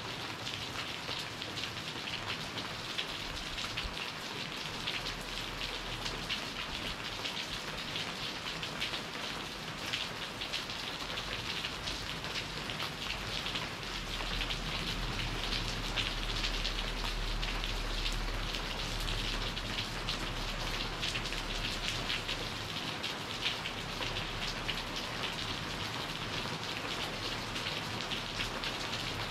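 Tropical rain falling steadily, a dense patter of drops, with a low rumble that swells through the middle stretch.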